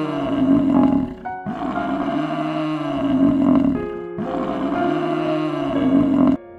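Cape buffalo bellowing: three deep, drawn-out calls of about two and a half seconds each, rising and falling in pitch, over soft background music with sustained notes.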